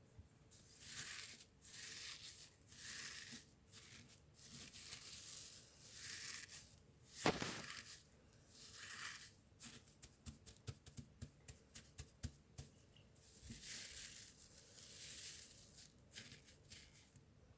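Close handling sounds: a series of short rustling swishes, a single sharp knock about seven seconds in, and a quick run of light taps or clicks a little after ten seconds in.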